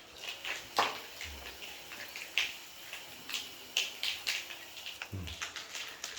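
Seriti swiftlets chirping: short, high chirps come at uneven intervals, several a second at times, with a couple of dull low bumps among them.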